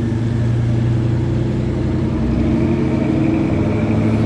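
Car engine running steadily at low speed, with a steady low hum.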